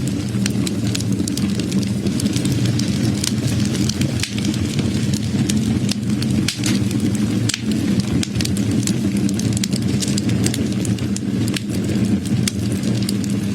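Wood fire burning: a steady low roar of flames with many irregular crackles and pops from the burning wood.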